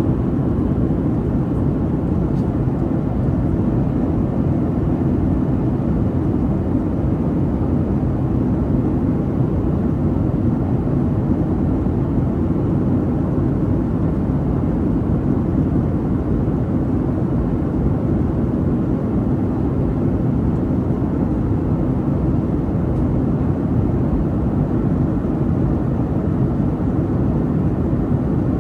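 Boeing 737-800 cabin noise in flight: a steady, deep rumble of the CFM56 jet engines and rushing air, unchanging throughout.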